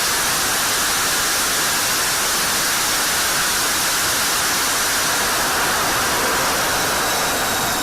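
Jet engine running steadily: an even, loud rush of noise with a thin high whine that slowly falls in pitch.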